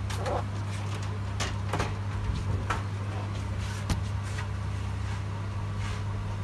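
Steady electrical hum, with irregular light clicks and taps from tools and parts being handled on a workbench.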